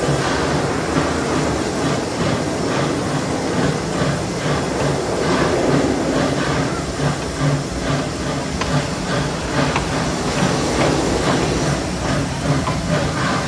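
Narrow-gauge park-railroad steam locomotive working up a grade, its exhaust chuffing rhythmically over a steady hiss and the clatter of the train on the track.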